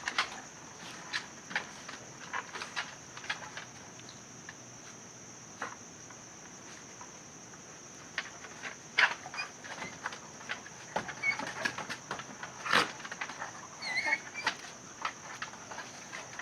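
Irregular light clicks and taps, thicker in the second half, with a few brief high chirps about fourteen seconds in, over a steady high-pitched hiss.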